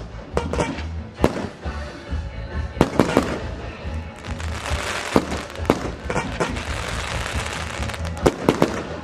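A fireworks display: mortar-fired shells bursting in repeated sharp bangs, with a dense crackling from about four seconds in, over background music with a steady beat.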